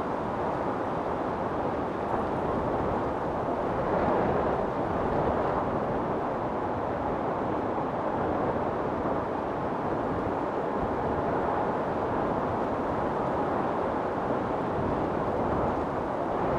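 Storm wind blowing steadily and hard, swelling slightly in gusts now and then.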